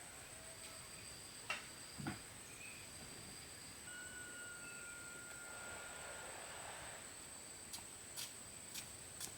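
Faint outdoor rural ambience: a steady high insect trill, a single held bird whistle partway through, and a few sharp clicks or knocks.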